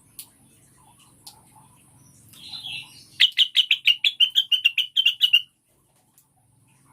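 Female cucak wilis leafbird calling: a short call, then a fast run of about fourteen loud, sharp chirps, roughly six a second, cut off abruptly near the end.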